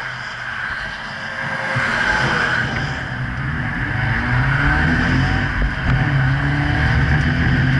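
Car engines pulling at road speed, their pitch rising and falling from a few seconds in and growing louder, over heavy wind and road noise on a camera mounted on the back of a car.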